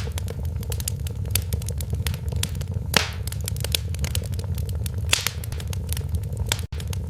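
Wood fire in a fireplace crackling and popping, with many sharp snaps over a steady low rumble and one louder pop about three seconds in. The sound cuts out for an instant near the end.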